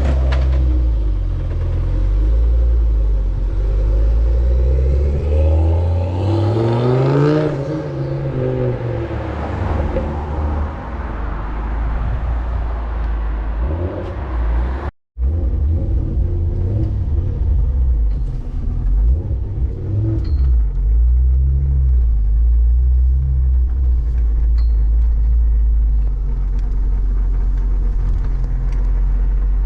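Mk2 Ford Focus ST's turbocharged five-cylinder engine running with a low rumble. It revs up and back down once about six to eight seconds in. The sound cuts out for a split second about halfway through.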